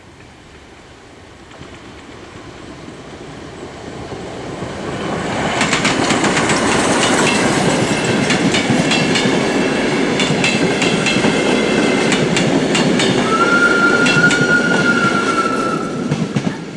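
Steam train passing close by: its rumble and the rapid clicking of wheels over the rail joints build up over about five seconds, then stay loud while the locomotive and coaches go by. Near the end a high, steady wheel squeal lasts about three seconds, and the sound drops away as the last coach clears.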